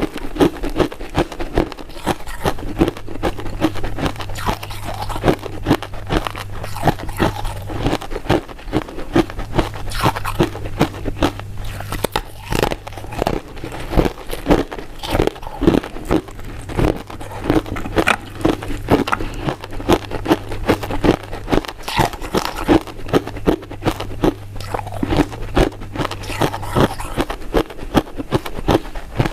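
Close-up chewing and biting of powder-coated mint sweets: a dense, irregular run of mouth clicks and crunches, several a second, with no pause.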